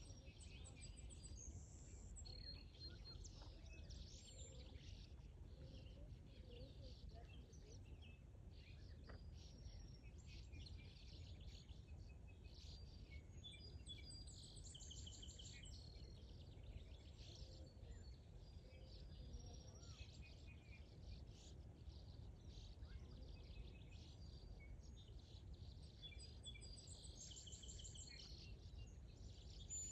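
Several small birds chirping and singing at once in a morning chorus, with short trills and calls throughout, over a faint low steady rumble.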